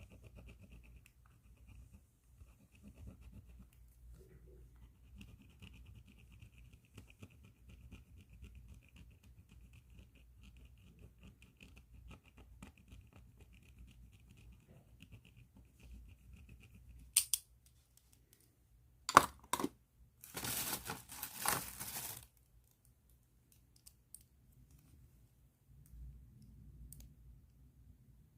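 Pen nib scratching faintly and steadily on paper. About 17 seconds in it gives way to a few sharp crackles and a loud burst of plastic bag crinkling, which is the loudest part, before it falls quiet.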